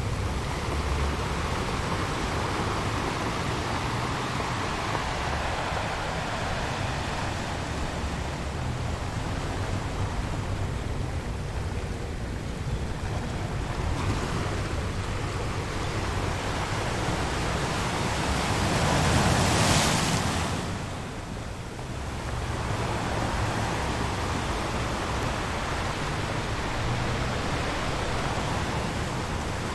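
Ocean waves washing ashore, a steady rush of surf. One wave builds to a louder crash about two-thirds of the way through, then drops away as it recedes.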